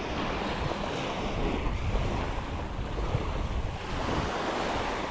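Surf breaking and washing up the beach, its hiss swelling twice, with wind rumbling on the microphone.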